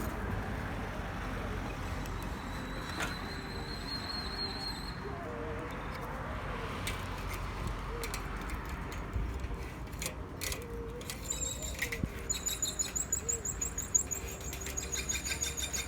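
A small bird chirping in a fast, even series of high notes starting about eleven seconds in, over a steady outdoor background hum.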